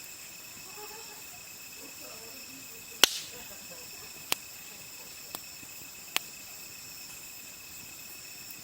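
Wood fire crackling: four sharp pops spread over a few seconds, the first the loudest, over a steady chorus of crickets chirping.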